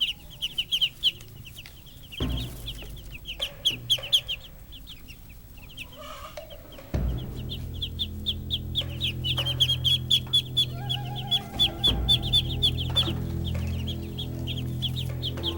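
Many caged birds chirping in rapid, dense high peeps. About halfway through, a low steady hum joins them.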